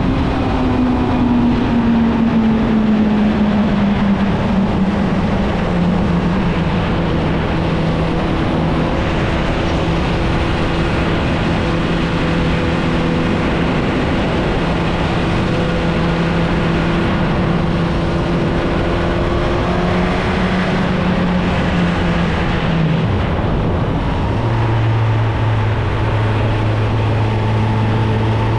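Suzuki GSX-R1000 inline-four engine through its stock exhaust, cruising: the note eases down over the first few seconds and holds steady. About 23 seconds in it drops sharply, then holds a lower steady note, over a steady rushing noise.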